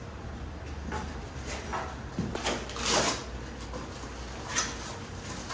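A few short knocks and clicks of objects being handled, with a brief scrape or rustle about three seconds in that is the loudest sound.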